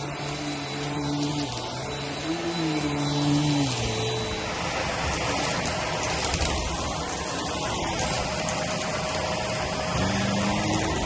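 Vacuum cleaner running on carpet, its motor tone shifting in pitch during the first few seconds and rising again near the end. From about halfway, crackling as it sucks up crunchy cereal debris.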